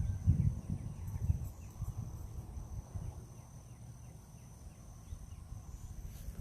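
Wind gusting on the microphone as an irregular low rumble, strongest in the first second and a half and then easing off. Under it runs a steady high insect trill, with faint repeated chirps.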